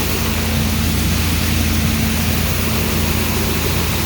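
Steady drone of farm machinery running: an engine's low hum with a constant rushing noise over it.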